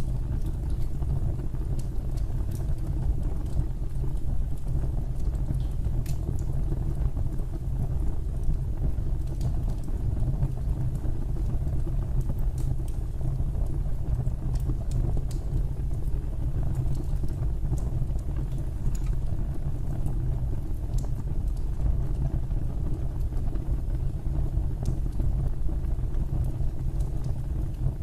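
Fire burning in a fireplace: a steady low rumble of flames with scattered crackles and pops.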